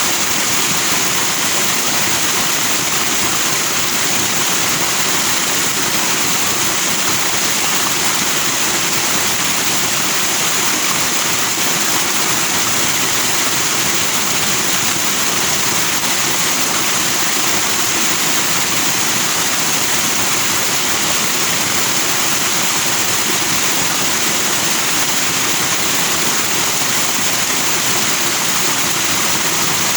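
Forest stream rushing over rocks, churning white foam; a steady, unbroken rush of water.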